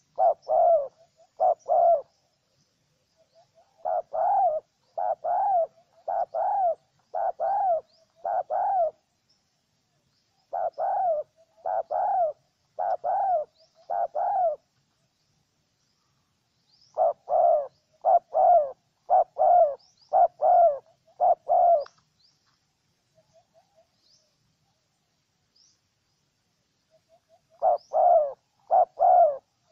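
Spotted dove cooing: runs of two to six arched coos about a second apart, broken by pauses of a few seconds. Faint high chirps of small birds sound in the background.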